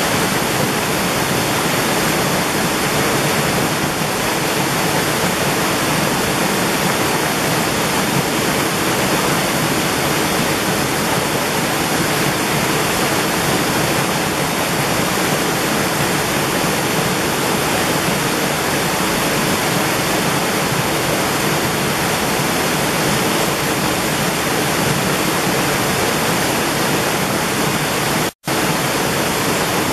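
Mountain valley stream running steadily: a dense, even wash of water noise. It cuts out for a split second near the end.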